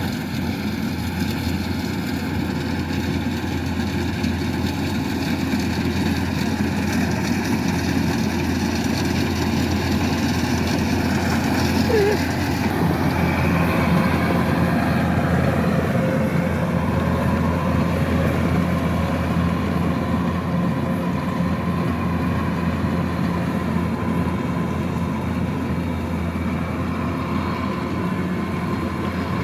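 Kubota DC-108X rice combine harvester's diesel engine running steadily under working load. Its engine note changes about twelve seconds in, when a new low hum joins.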